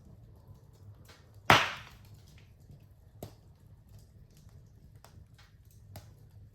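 Fire crackling in a fireplace: a loud pop about a second and a half in, two smaller snaps later and scattered faint ticks over a low steady rumble.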